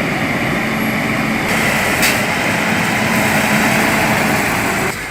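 Chainsaw engine running steadily, with a sharp click about two seconds in; the sound cuts off abruptly just before the end.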